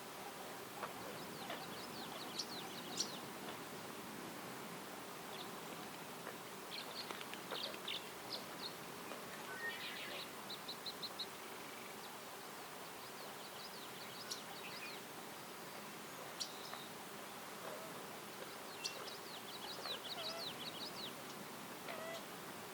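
Small songbirds chirping in several short bursts of rapid high notes over a steady background hiss.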